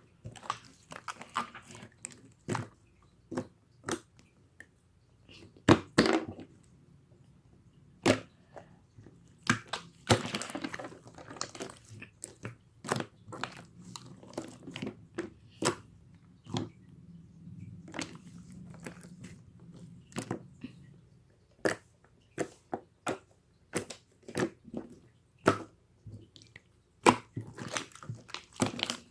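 Close-up chewing with sharp, irregular crunches and clicks, several a second at times, and short rustling stretches between them.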